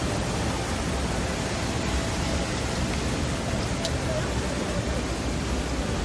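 Steady rushing noise, even and unbroken, heaviest in the low end, with no distinct knocks or events.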